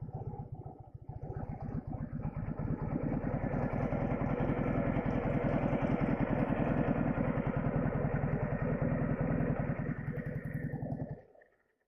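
Flat-twin engine of a Soviet Ural or Dnepr sidecar motorcycle running under way, getting louder over the first few seconds and then holding steady. It cuts off abruptly near the end.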